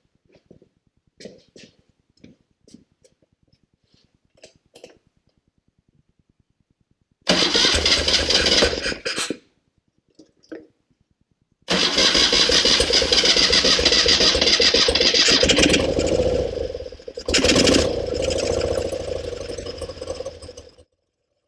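1974 BMW R90S flat-twin engine being started: a first loud burst of about two seconds stops. About two seconds later a second start catches and runs steadily, with a brief dip and a louder surge around two-thirds through, before cutting off suddenly near the end. Faint clicks and knocks come before the first start.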